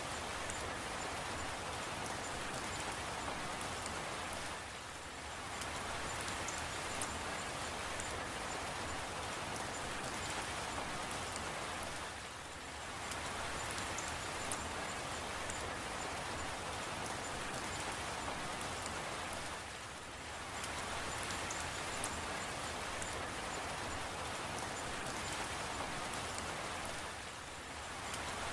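Steady rain falling, an even hiss with scattered small drop ticks. The level sags briefly about every seven and a half seconds.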